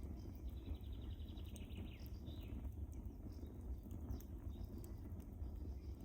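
Wood fire burning in a fireplace: a steady low rumble of the flames with scattered small crackles and pops. From about half a second in, a brief high, fluttering whistle falls away and ends after about two seconds.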